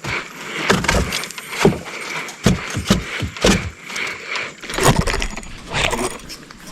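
Irregular knocks, thumps and light rattling of gear being handled in a small fishing boat.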